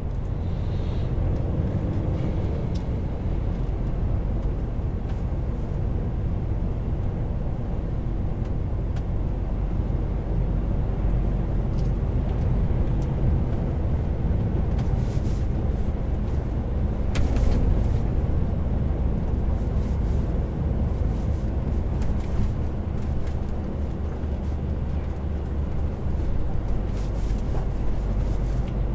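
Heavy truck driving on the road: a steady low engine drone with road noise, and scattered short clicks and rattles.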